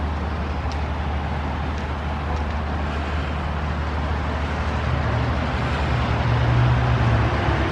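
A motor vehicle's engine running close by with a steady low hum over road noise, the hum rising a little and getting louder in the last couple of seconds.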